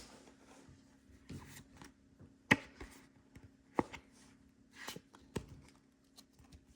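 Pokémon trading cards handled and flipped through by hand, giving several sharp card snaps a second or so apart, the loudest about two and a half seconds in, with light rustling between.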